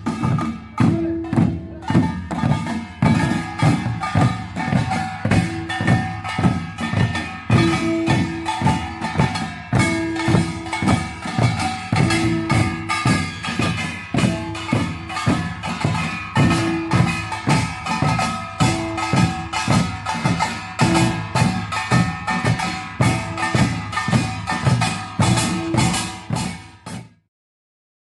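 Samul nori percussion ensemble playing a fast, driving rhythm: rapid clanging of small metal gongs over beating drums. The playing stops abruptly near the end.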